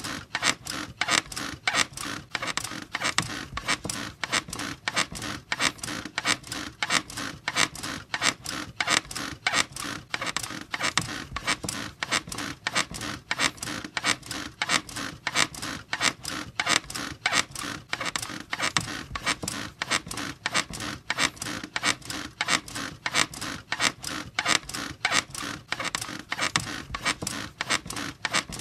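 Bed squeaking in a steady, even rhythm, a couple of squeaks a second, as if someone were rocking or bouncing on it.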